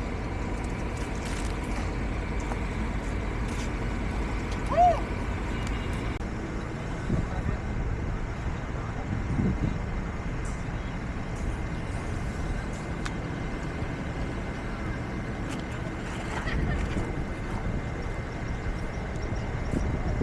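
Heavy diesel construction machinery running steadily with a low rumble, with a short high squeak about five seconds in.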